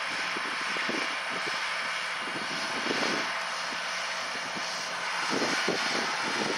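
Diesel engines of John Deere 8R-series tractors running steadily under load as they pull moldboard plows, heard as an even, continuous drone.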